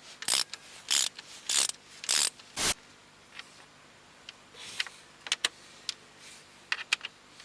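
Ratchet wrench worked in quick strokes, about five in the first three seconds, followed by a few sharp metallic clicks.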